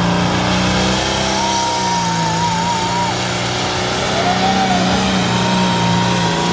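New Holland 8010 tractor's diesel engine running hard and steady under full load while pulling the sled down the track, with a thin high whistle over it that wavers in pitch.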